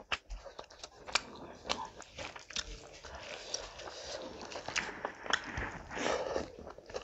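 Close-miked mouth sounds of someone eating rice and curry by hand: chewing with irregular sharp wet smacks and clicks.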